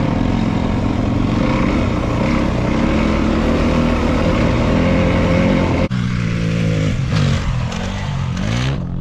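Dual-sport motorcycle engine running under throttle, revving up and down near the end. The sound changes abruptly about six seconds in, as at a cut between riding clips.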